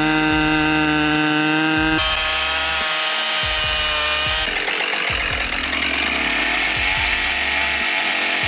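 Chainsaw running at high revs and cutting wood, a steady high engine whine. The sound changes abruptly about two seconds in and again about four and a half seconds in, turning noisier.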